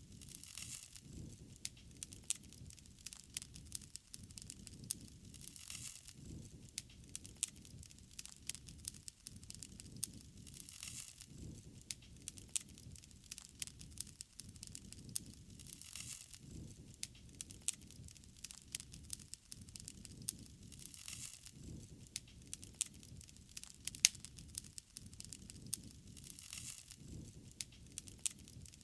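Wood fire crackling: irregular sharp pops and snaps over a low flame rush that swells softly about every five seconds.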